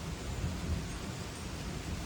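Thunderstorm: a steady hiss of rain with a low rumble that swells and falls unevenly, from gusting wind and thunder.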